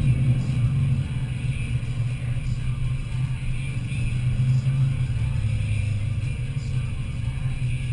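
Vehicle engine running steadily, a continuous low drone.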